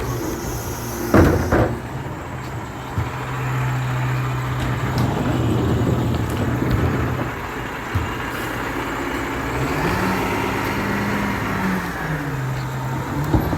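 Garbage truck engine running steadily, with a loud clank about a second in. About ten seconds in the engine revs up, holds for a couple of seconds, then drops back.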